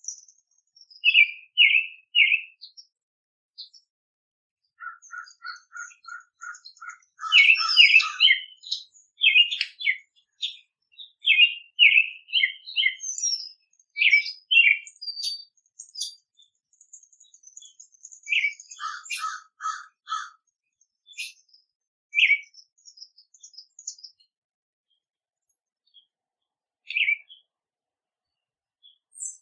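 Wild songbirds chirping and calling in short, bright notes, several birds at once. There is a quick run of about eight even, lower notes a few seconds in, and a shorter run of four near the middle.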